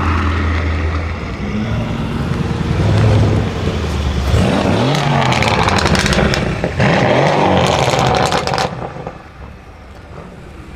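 Mercedes-AMG C63 S's twin-turbo V8 with a decat straight-pipe exhaust, running steadily and then revved up and down several times, with sharp crackles and pops from the exhaust. The revving stops suddenly about two seconds before the end, leaving a much quieter sound.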